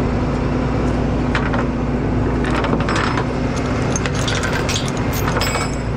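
Metal clinks and rattles of tie-down strap hardware being unhooked, in clusters around the middle and near the end, over the steady idle of the Hino rollback's diesel engine.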